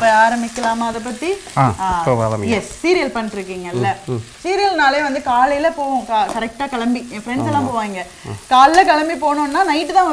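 Chopped onions and green chillies sizzling in hot oil in a stainless steel kadai while a metal spatula stirs them, scraping and squeaking against the pan over and over.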